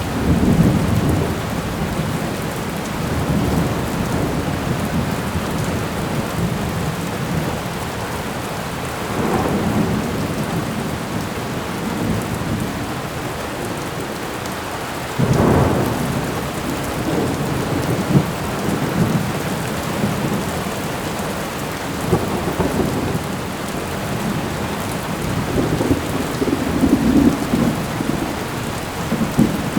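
Thunderstorm: steady heavy rain with low thunder rumbling in repeated swells, and a sharper, louder thunderclap about halfway through.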